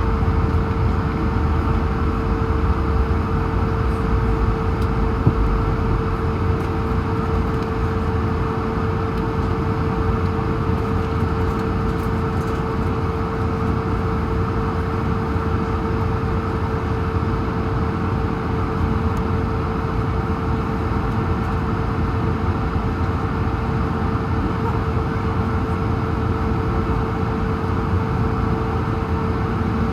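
Airbus A220's Pratt & Whitney PW1500G geared turbofan engines at idle, heard inside the cabin as a steady hum and rumble with one steady mid-pitched tone.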